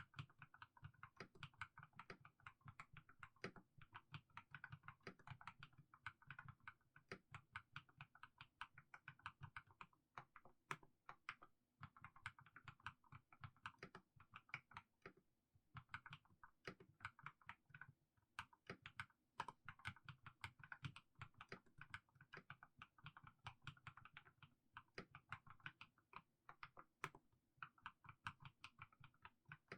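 Mechanical keyboard with fully lubricated Haimu Sea Salt switches typed slowly: a quiet, continuous run of keystrokes in bursts with brief pauses every few seconds.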